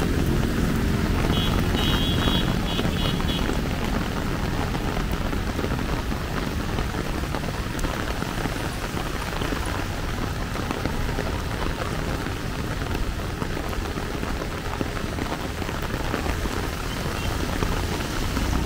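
Heavy rain falling on an umbrella and the pavement, a steady dense hiss over a low rumble. A short run of high beeps comes about two seconds in.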